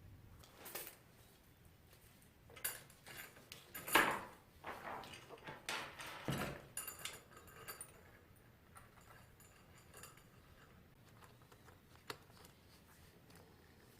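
Faint metallic clinks, rattles and clicks of small metal parts and tools being handled, busiest in the first half with the loudest clink about four seconds in, then only a few light ticks.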